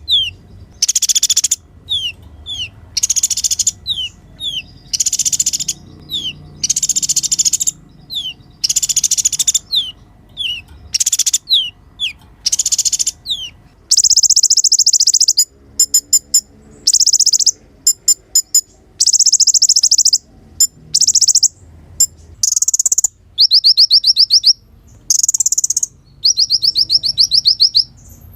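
Brown-throated sunbird (kolibri ninja) singing loudly: short, sharp trilled phrases alternate with quick down-slurred whistles. About halfway through, the song changes to longer rapid trills and clicking rattles.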